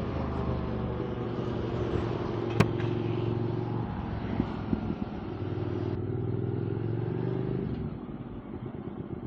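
QJ Motor SVT650X's parallel-twin engine running under way through an Arrow Race-Tech slip-on exhaust, with one sharp click about two and a half seconds in. Near the end the note rises slightly, then drops to a lower, quieter run as the throttle closes.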